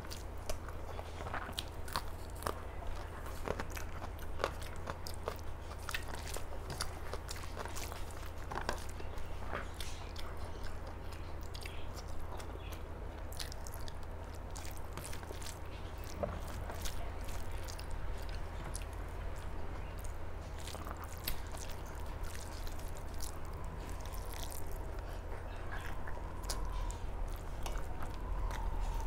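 Close-up chewing and mouth sounds of someone eating a rice meal, with frequent small wet clicks and smacks, over a steady low hum.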